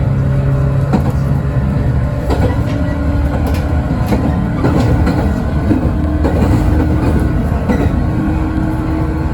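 JR West 115 series electric train running, heard from on board: a steady low hum from its MT54 traction motors and running gear, with the pitch of the hum shifting about two seconds in, and wheels clicking over rail joints.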